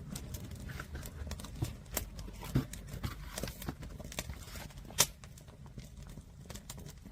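Firewood tower fire crackling, with irregular sharp pops from the burning logs; one loud crack about five seconds in.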